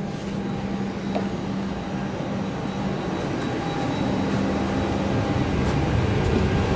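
Steady mechanical drone on the flight deck of an Airbus A319 with its auxiliary power unit running, a constant low hum under a hiss of air, slowly getting louder.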